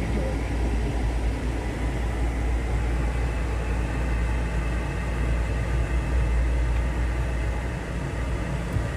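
A steady low vehicle engine rumble, as heard while idling in a queue of vehicles, with a faint steady hum above it.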